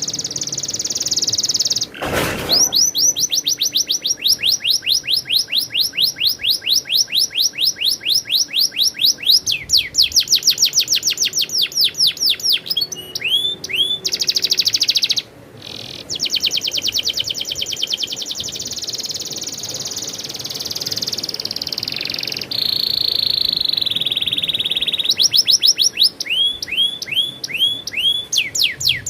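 Domestic canary singing a long rolling song: fast runs of the same sweeping note repeated many times a second. There is a brief break about halfway through and a held, buzzier passage later on.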